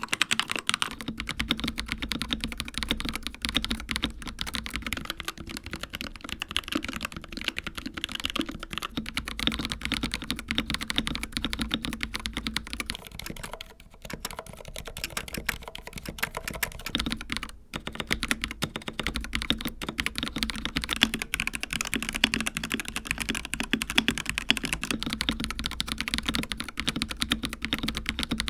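Fast, continuous typing on a succession of mechanical keyboards with linear and tactile switches: a Keychron K2 (Gateron Red), a Dark Project KD083A (Gateron Cap Teal), a Glorious GMMK Pro (Gateron Black Ink) and a Royal Kludge H81 (Sky Cyan). The dense clacking of keystrokes breaks briefly twice near the middle.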